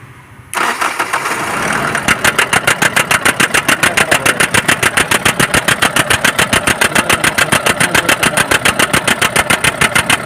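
Common-rail diesel engine cranking and catching about half a second in, then running with a harsh, rapid, even knocking ('kat kat kat'). The engine sound is very bad. The mechanic first suspects a seized injector, then traces the knock to the common-rail pressure sensor letting the rail pressure run too high.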